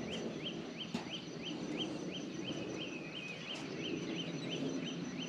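A bird calling in a fast, regular series of short high chirps, about three a second, over a low steady rushing background.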